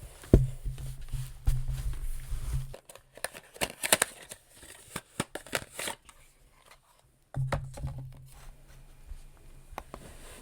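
Paper being handled and crinkled close to the microphone, in quick crackling rustles, with a sharp knock near the start and low rumbling handling noise at the start and again about seven seconds in.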